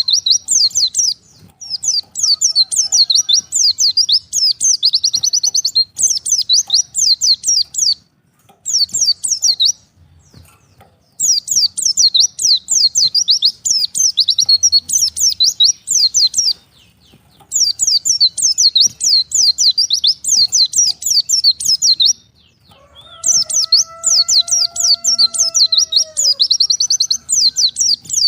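White-eye (pleci) singing a rapid, high twittering warble in phrases a few seconds long with short pauses between, some phrases ending in a fast trill. Near the end a separate lower, drawn-out call rises and falls under the song for about three seconds.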